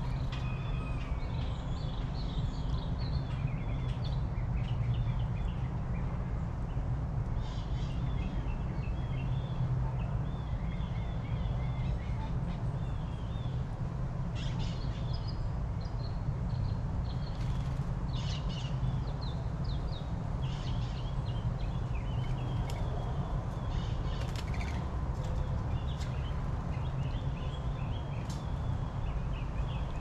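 Wild birds chirping and calling in short bursts again and again, over a steady low rumble.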